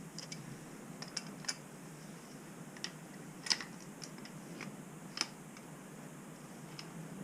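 Scattered light clicks and taps, as of tools and small pipe fittings being handled, with the sharpest about three and a half seconds in and just after five seconds, over a faint steady low hum.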